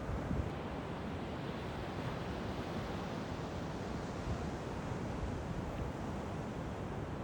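Ocean surf breaking on a beach: a steady, even rush of waves, with wind buffeting the microphone.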